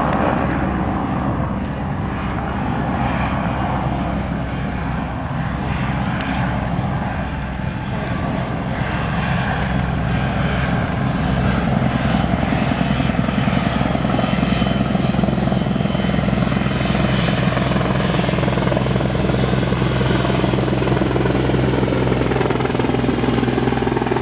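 Sikorsky S-64 Sky Crane firefighting helicopter in flight: rotor noise with a steady high turbine whine, growing somewhat louder about halfway through and then holding steady.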